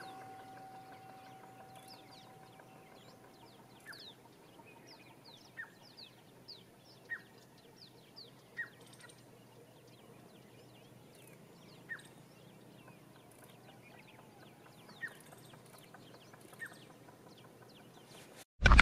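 Faint bird calls: short chirps that slide down in pitch, repeating every second or two, with softer high chirps in between.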